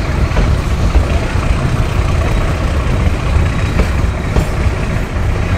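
Meter-gauge passenger train running, heard from the open doorway of a moving coach: a steady, loud rumble, with wind buffeting the microphone.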